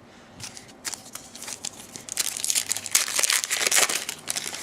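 A trading card pack's foil wrapper being torn open and crinkled by hand, with a loud stretch of crackling from about two to four seconds in.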